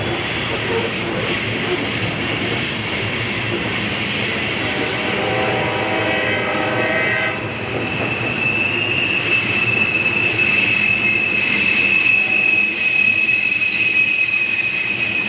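Freight train rolling past, its wheels squealing in one steady high tone from about eight seconds in.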